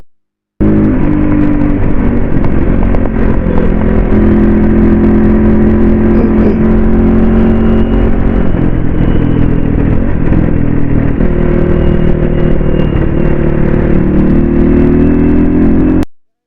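Suzuki RM250 two-stroke dirt bike engine running while being ridden, its revs rising and falling. It cuts in about half a second in and stops suddenly near the end.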